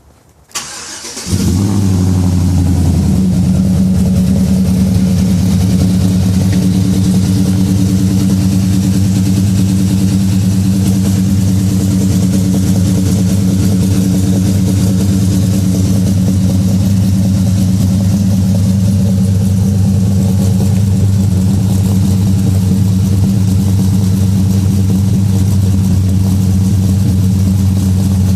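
Cold start of a 2012 Chevy Silverado's ProCharger-supercharged 5.3-litre V8, breathing through long-tube headers and a Magnaflow performance exhaust. The starter cranks briefly, the engine catches about a second in with a quick flare of revs, then settles within a couple of seconds into a steady, loud idle.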